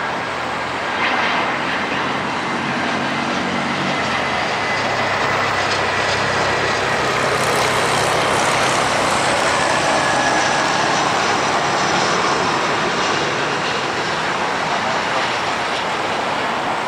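Jet engines of an Airbus A320 airliner coming in to land, a loud rushing roar with a thin high whine, swelling to its loudest around the middle and easing off a little toward the end.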